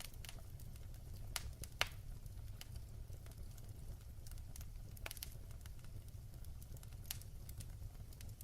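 Wood fire crackling in a fireplace: a low steady rumble of the flames with scattered sharp pops and snaps, the loudest a little under two seconds in.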